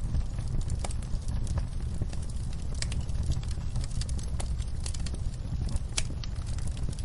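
Wood fire burning in a fireplace: a steady low rumble of flames with irregular crackles and pops, one sharper pop about six seconds in.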